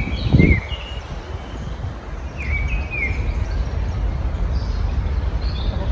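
Small birds chirping in short, downward-sweeping calls, a few near the start and again about two and a half seconds in, over a steady low background rumble. A brief, louder low burst comes just under half a second in.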